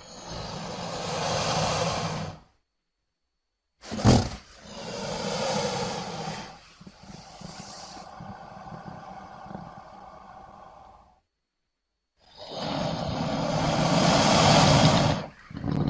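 Designed creature vocalizations for Titanoboa, a giant prehistoric snake: a run of separate hissing roars with short silences between them. One call opens with a sharp attack and trails off slowly.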